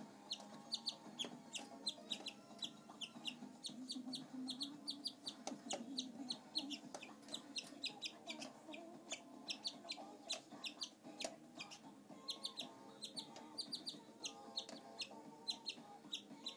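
Pet canary giving short, high chirps in quick series, several a second, with brief pauses between runs.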